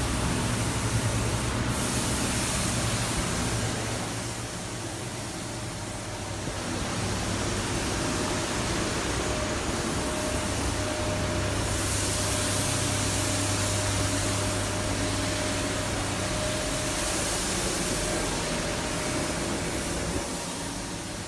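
BMW 116i's N13 1.6-litre turbocharged four-cylinder engine running with a steady low hum under a hiss that swells and fades. The sound dips in level about four seconds in and comes back up a couple of seconds later.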